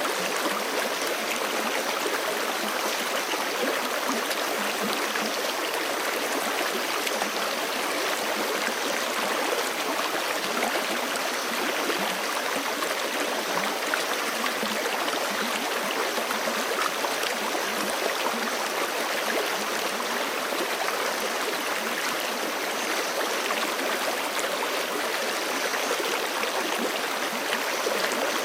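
Forest creek flowing steadily over rocks, an even rush of water with light gurgling.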